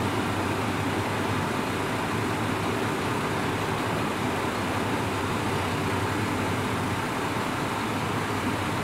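Train running slowly into a station: a steady low hum over an even hiss, with no rise or fall in loudness.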